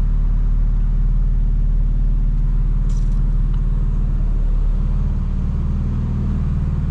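Straight-piped BMW M4 Competition's twin-turbo inline-six cruising with a steady low exhaust drone, its pitch shifting slightly about two-thirds of the way through.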